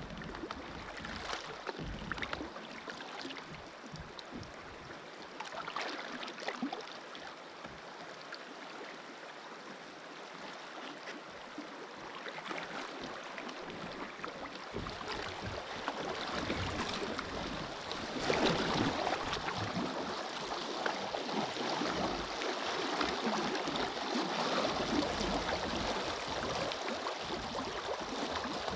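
Moving river water sloshing and lapping around a kayak, with small knocks and splashes. It grows louder about two-thirds of the way through.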